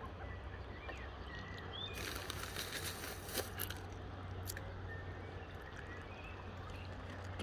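Water birds calling with short chirps over a steady low hum, with a brief burst of rustling noise about two seconds in.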